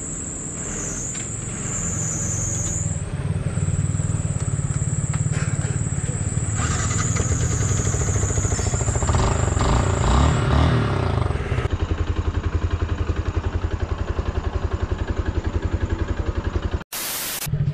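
Yamaha R15 V3's 155 cc single-cylinder engine idling, a steady even run of firing pulses.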